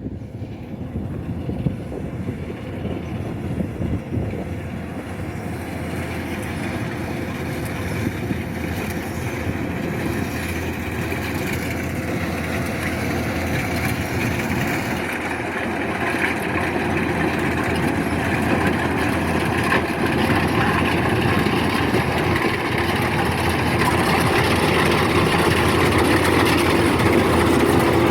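Kubota DC-105X combine harvester running, its diesel engine and threshing machinery making a steady drone that grows gradually louder. A steady hum joins in near the end.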